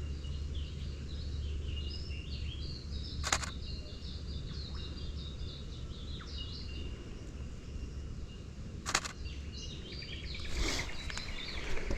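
Small birds chirping in a run of short, high calls over a low steady rumble. Two single sharp clicks about three and nine seconds in, and a fast buzzy trill starts near the end.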